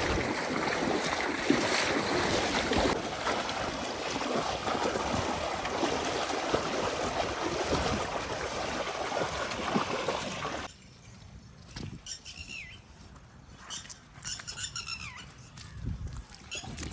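Loud rushing noise that cuts off suddenly about ten seconds in, leaving a quiet outdoor background with a few short high chirps, like birds.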